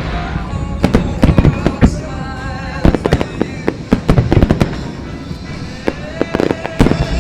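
Aerial fireworks shells bursting in rapid volleys, with a lull about five seconds in, over music playing along with the display.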